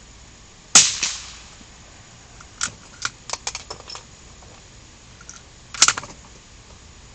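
Two rifle shots about five seconds apart, each a sharp crack with a short trailing report, and a quick run of metallic clicks in between.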